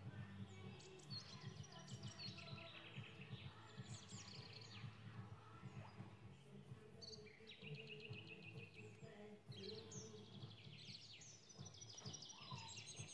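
Faint birdsong: several phrases of quick high chirps and fast falling trills, over a low steady background hum.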